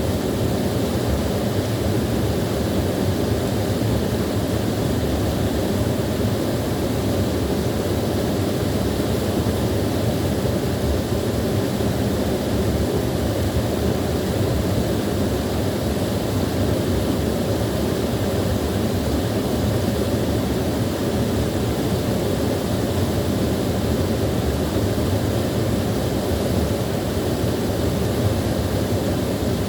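Small waterfall, water pouring and rushing steadily with a deep, even rumble.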